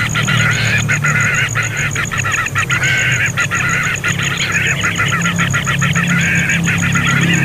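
A young bird calling continuously in quick, raspy, repeated cries, over a steady low hum.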